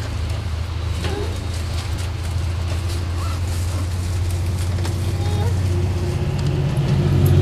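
Steady low diesel rumble of a train, heard from inside a passenger carriage. About six seconds in, a second engine note joins and the sound grows louder as a diesel locomotive comes close alongside.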